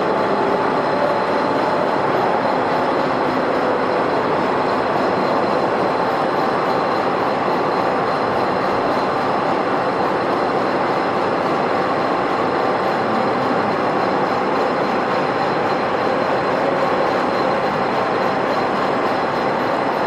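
Metal lathe running steadily while machining a bolt: a constant mechanical noise with a few steady whining tones over it.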